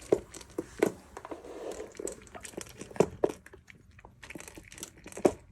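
A dog chewing and crunching food, with irregular crisp crunches.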